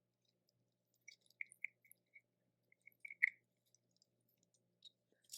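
Close-miked eating of shellfish: a faint run of small wet clicks and smacks, starting about a second in, with the loudest just after three seconds.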